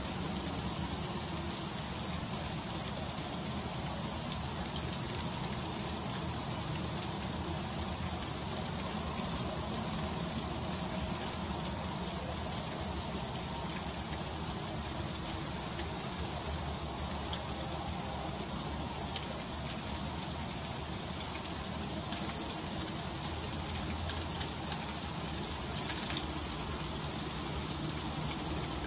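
Freezing rain falling in an ice storm: a steady, even hiss of drops striking surfaces, with faint fine ticks throughout.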